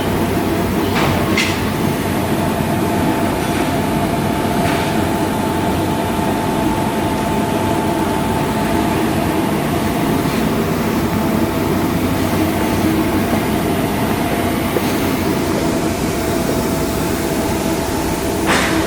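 Steady drone of heavy machinery with a constant whine and a few faint metallic knocks, a little after the start and again about five seconds in.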